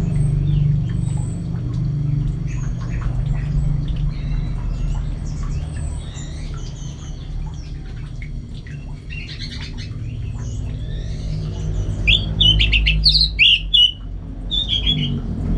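Orange-headed thrush singing a varied, lively run of short chirps and whistled notes, loudest and densest about twelve to fourteen seconds in, over a steady low hum.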